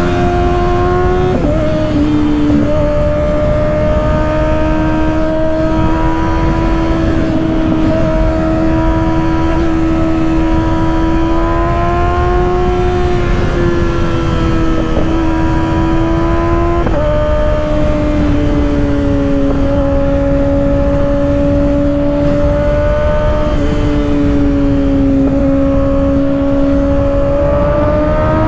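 2024 Kawasaki ZX-6R's 636 cc inline-four breathing through an M4 aftermarket exhaust, heard from on board while riding, over heavy wind rush. The engine note holds fairly steady, drops suddenly in pitch a few times, and climbs again near the end.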